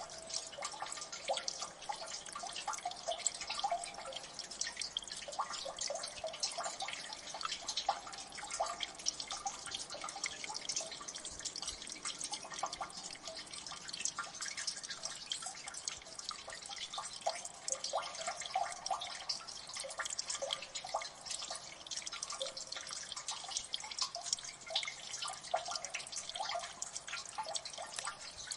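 Water dripping and trickling in a rocky gully: many small drops plinking irregularly, several a second, over a faint steady wash of running water.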